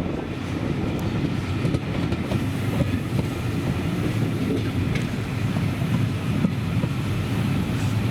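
Train running along the track, heard as a steady rumble with a few faint clicks from the wheels.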